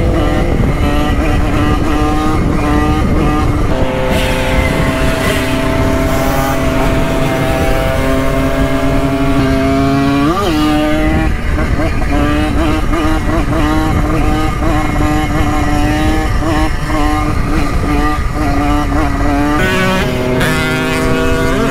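Simson two-stroke moped engine running at a steady pace while riding, with a quick rise in revs about ten seconds in and again near the end.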